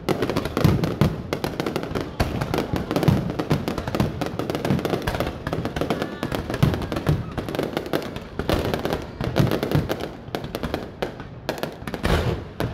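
Fireworks display: a dense, continuous run of bangs and crackling bursts, several a second, with no pause.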